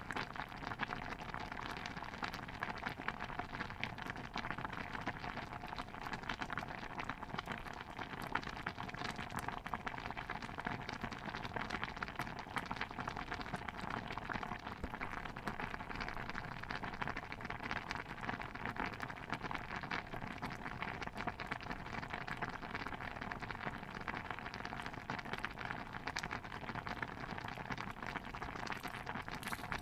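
Thick stew bubbling in a pot: a steady, dense patter of small pops and crackles.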